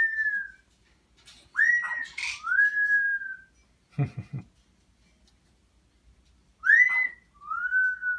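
Parrot whistling a two-note "hel-lo" phrase over and over: a quick rising note, then a longer, slightly falling one. A short low voice sound comes about halfway through.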